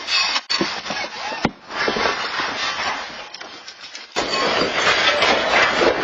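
Clattering and rattling with sharp knocks, as objects shake and bang about in earthquake shaking. The noise jumps louder about four seconds in.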